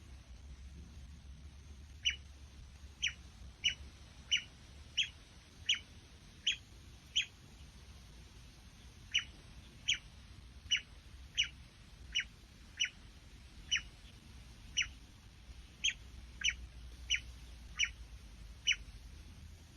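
Bird chirping: about twenty short, sharp single notes, each dropping quickly in pitch, repeated roughly once a second with a pause of about two seconds partway through.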